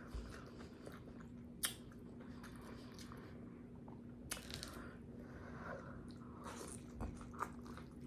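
Faint close-up eating sounds of a person chewing and biting soft food, with a few sharp wet mouth smacks, the loudest about a second and a half in and past the middle.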